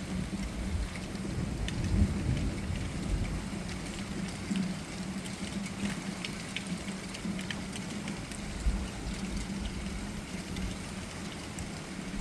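Steady rain falling during a thunderstorm, with the low rumble of thunder rolling through the first few seconds and swelling about two seconds in.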